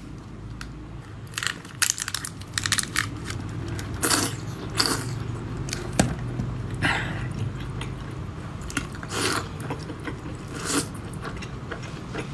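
Close-up biting and chewing of spicy seafood and enoki mushrooms in chili sauce: wet, irregular mouth sounds with short louder crunches and bites now and then.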